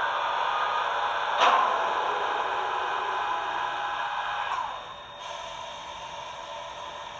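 Sound decoder of a Roco model of the ÖBB 1116 Taurus electric locomotive, playing its traction converter whine over a steady fan hiss, with a sharp click about one and a half seconds in. About four and a half seconds in the whine drops in pitch and the sound falls to a quieter hum, as the locomotive winds down.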